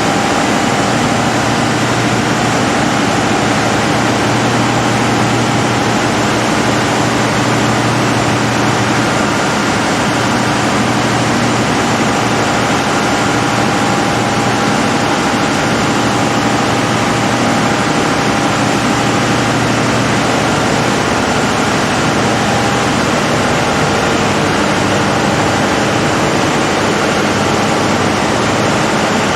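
Large diesel generator set running steadily at constant speed, a loud even din with a low hum underneath.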